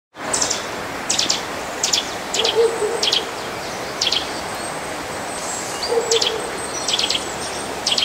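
A small bird chirping: about ten short, high chirps, often doubled, coming irregularly about once a second with a longer pause in the middle, over a steady outdoor hiss.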